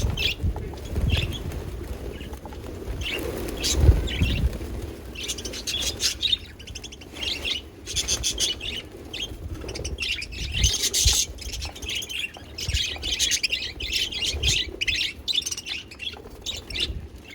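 Budgerigars chirping and warbling in quick, busy bursts of high twittering calls, with a few low thumps among them.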